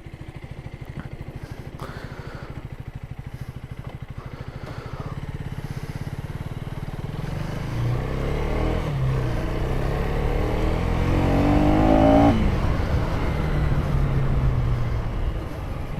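KTM 250 Duke's single-cylinder engine pulling away at low revs, then accelerating: the pitch climbs from about eight seconds in and drops sharply a little after twelve seconds, then runs on at a steady speed.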